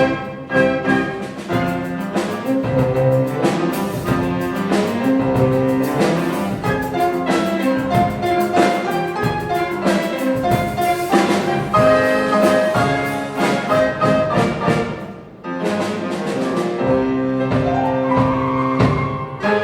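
Children's brass band playing a medley of cartoon tunes, brass carrying the melody over drums, with a brief drop in volume a little after the middle before the band comes back in full.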